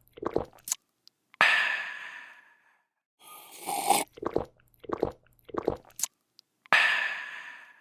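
A person drinking with gulping swallows, then a breathy refreshed 'aah' exhale that fades over about a second. Next comes a slurp, four more gulps and a second 'aah' near the end.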